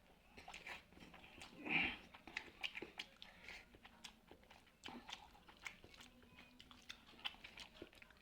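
A person chewing and eating food close to the microphone: a scatter of small wet mouth clicks and smacks, with one louder breathy sound about two seconds in.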